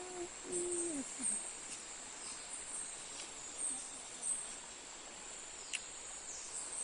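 Insects keep up a steady, high-pitched chorus with scattered chirps. In the first second a low held hum-like sound falls away, and near the end there is a single sharp click.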